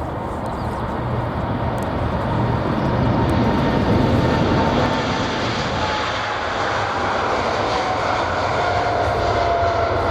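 Boeing 747's jet engines going past, a loud rumble that swells to its peak about four seconds in. A thin whine slides slowly down in pitch as the jet moves away.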